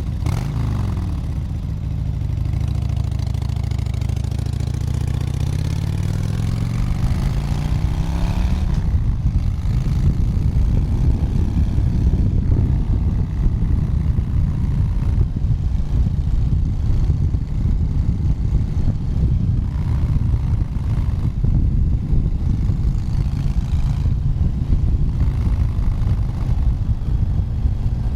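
Motorcycle engine pulling up through the revs for the first nine seconds or so, its note rising, then running steadily at highway speed under a rough low rumble.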